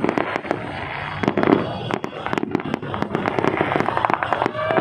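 Fireworks going off: a dense run of rapid crackling pops.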